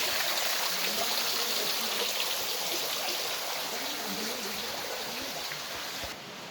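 Rushing creek water, a steady noise that slowly fades and drops off abruptly near the end, with faint voices beneath it.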